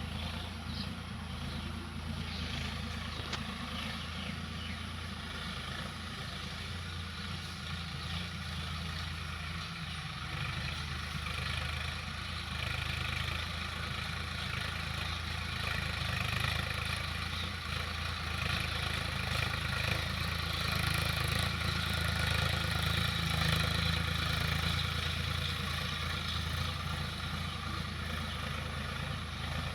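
Swaraj tractor's diesel engine running steadily, growing somewhat louder about two-thirds of the way through.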